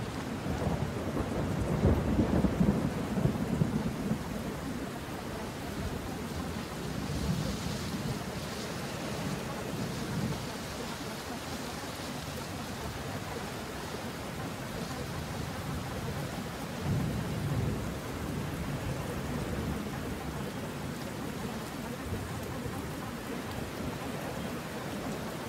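Steady rain with low rolling rumbles of thunder. The loudest rumble comes a few seconds in, and others swell up around a third and two thirds of the way through.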